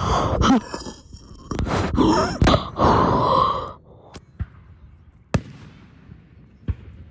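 Fireworks going off: a dense run of bangs and crackling for about the first three and a half seconds, then it thins to a few single sharp booms.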